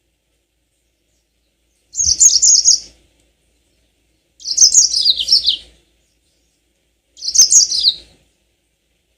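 Yellow-fronted canary (Mozambique canary) singing: three short phrases of quick, high trilled notes, each about a second long and separated by silent gaps; the second and third phrases slide downward in pitch.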